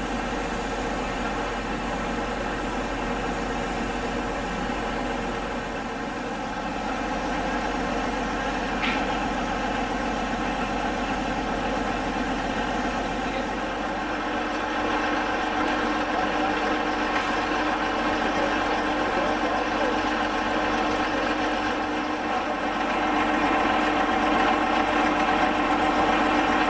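An engine running steadily, a dense hum of many steady tones; a steady low tone joins about halfway through and the sound grows a little louder near the end, with one brief sharp high sound about nine seconds in.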